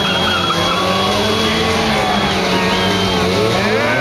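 Stunt motorcycle engine revving, its pitch rising and falling, over a steady high squeal.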